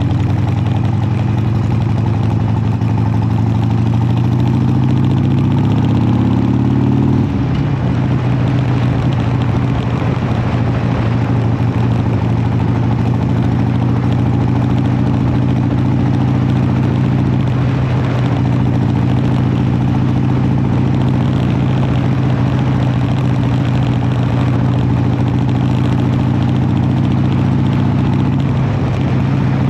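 Harley-Davidson V-twin engine under way, rising in pitch for about seven seconds, then dropping back as it shifts gear and running at a steady pitch.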